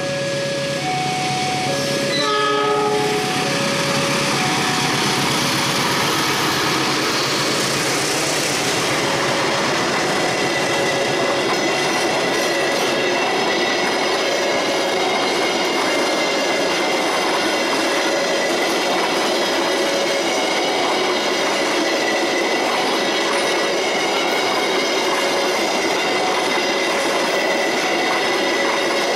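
Long passenger train passing close by at speed, with a short horn blast about two seconds in and then the steady rush and clatter of its coaches rolling past. Under it, a level-crossing warning chime alternates between two notes about once a second.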